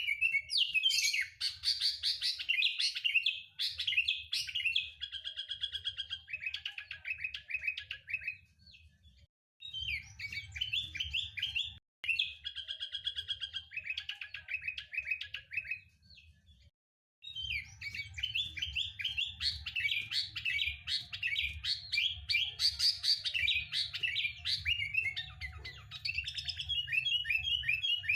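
Sooty-headed bulbul (kutilang) singing: quick chattering, warbled phrases of rapid repeated notes, pausing briefly about a third of the way in and again past halfway, over a faint low hum.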